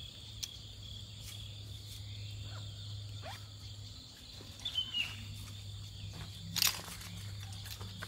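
Insects chirring steadily in the forest, with a low steady hum underneath. A few short knocks and rustles come through, the loudest late on.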